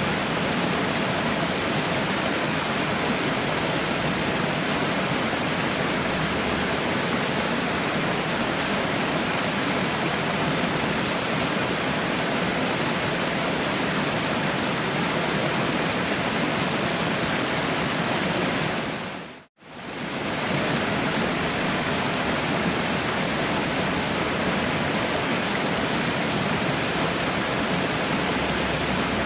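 Waterfall rushing as a steady, even roar of falling water. About two-thirds of the way through it briefly dips almost to silence and comes back within a second.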